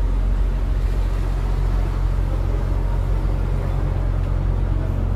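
Houseboat's engine running steadily, a low, even drone.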